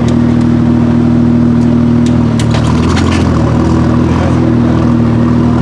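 BMW M2 F87's straight-six engine with a Hamann exhaust, idling steadily; its note shifts briefly about two seconds in.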